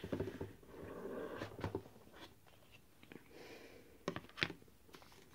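Lid of a cardboard presentation box being slid off, with soft rubbing of card and paper and a few light knocks, the clearest two near the end.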